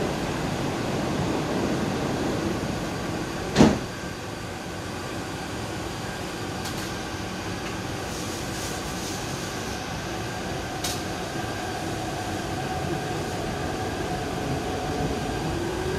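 Sliding doors of an MTR East Rail line Hyundai Rotem train shutting with one loud thump a few seconds in, followed by the steady hum of the train interior. Near the end a rising whine comes in as the train pulls away.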